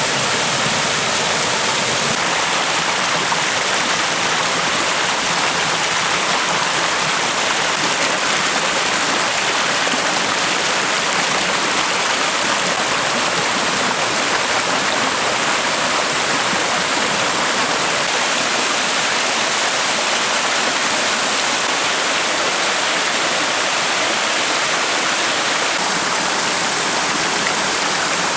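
Mountain stream rushing and splashing over rocks: a steady, loud rush of water.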